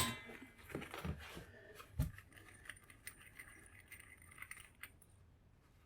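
Small pieces of brass scrap being handled by hand, with a few faint metallic clinks and taps, the clearest about one and two seconds in.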